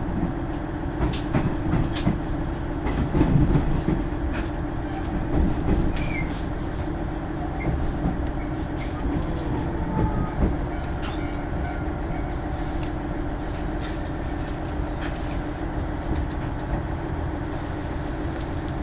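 Hachikō Line diesel railcar rolling through the yard tracks into Takasaki, heard from on board: a steady running drone with the wheels clicking over rail joints and points, heavier knocks in the first few seconds.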